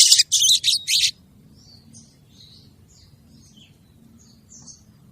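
Female sogon bird calling: a loud burst of rapid, scratchy high call notes in the first second, then faint scattered chirps.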